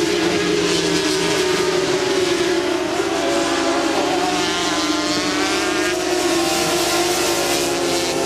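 Several 400 cc supersport racing motorcycle engines running hard at high revs, their notes overlapping, the pitch dipping slowly and then climbing again.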